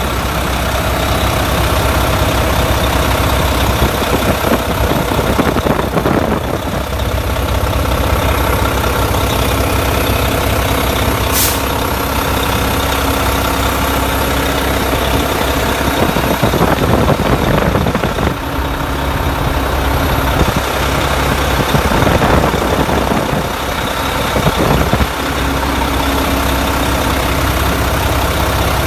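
Mack MP8 inline-six diesel engine of a 2012 Mack CXU613 highway tractor idling steadily.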